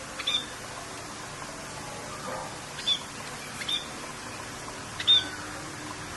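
A small bird giving short, sharp chirps, four of them spaced a second or two apart, over a steady hiss of rain.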